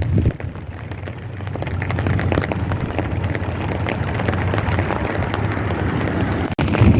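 Big raindrops falling steadily, many separate drops ticking on surfaces over a continuous rain hiss, with a low wind rumble on the microphone at the start and again near the end.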